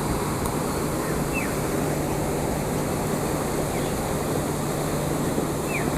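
Steady rushing background noise, with two short descending bird chirps: one about a second and a half in, one near the end.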